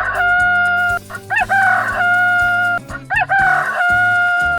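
Rooster crowing, three cock-a-doodle-doos in a row, each ending in a long held note, over background music.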